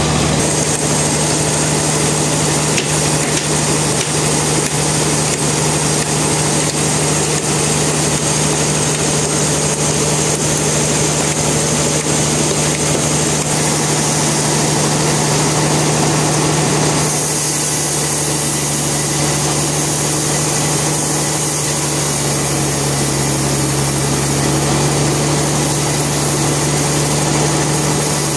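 Sawmill machinery running with a loud, steady mechanical drone and a constant low hum. The tone shifts noticeably about two-thirds of the way through, then runs on steadily.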